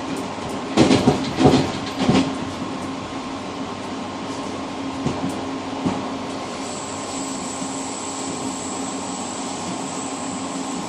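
Passenger train running on the rails, heard from inside its rear cab: a steady rumble and hum, with a quick run of loud wheel knocks over rail joints about a second in and two lighter knocks around five and six seconds. A thin high steady whine joins about two-thirds of the way through.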